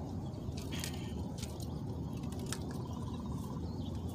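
Birds chirping a few times over a steady low rumble, with a brief fast trill near the end.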